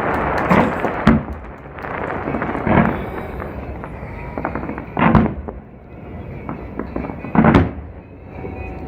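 Aerial fireworks shells bursting in the sky: a dense crackle that dies away after about a second, then five separate booms, the loudest about five and seven and a half seconds in.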